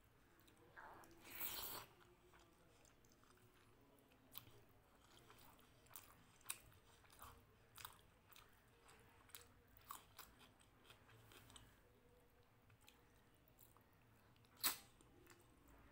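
Close-miked chewing of a hand-eaten mouthful of rice, dal and fried food: a short crunchy burst about a second and a half in, then scattered soft mouth clicks while chewing, and one sharp smack near the end.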